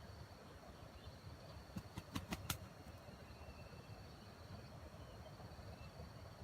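Faint outdoor ambience: a steady high insect drone over a low hum, with a quick run of a few sharp clicks about two seconds in.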